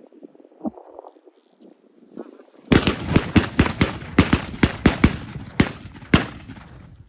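A volley from several shotguns: about fourteen rapid shots over three and a half seconds, starting a little under three seconds in, as hunters fire on incoming waterfowl.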